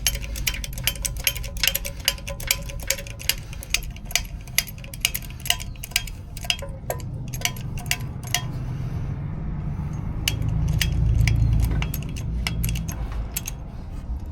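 Hydraulic jack being pumped under a lower ball joint, its handle and lifting mechanism clicking metallically about three times a second. The clicks thin out after about eight seconds and a low rumble swells near the end.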